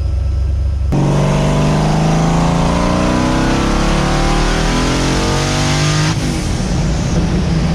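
Turbocharged LS V8 in an Audi B5 S4, heard from inside the cabin: a steady low hum at first, then about a second in the engine pulls under acceleration, its pitch rising steadily for about five seconds before it drops back near the end.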